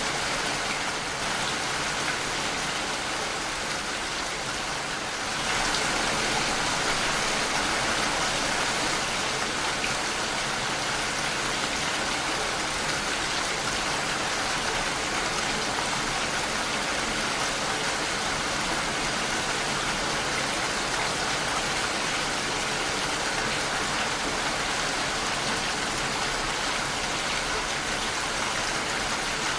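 Steady rain falling against a window pane: a dense, even hiss of drops that gets a little louder about five seconds in.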